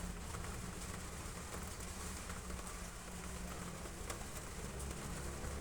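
Heavy rain falling on roof tiles: a steady hiss of drops with a few sharper ticks.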